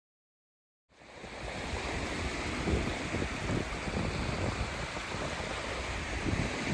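Steady rush of ocean surf with gusts of wind on the microphone. It fades in out of silence about a second in.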